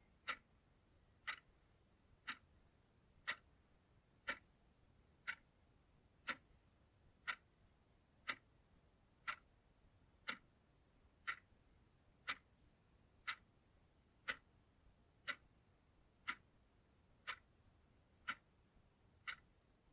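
Clock ticking steadily, about one short tick each second, over faint background hiss.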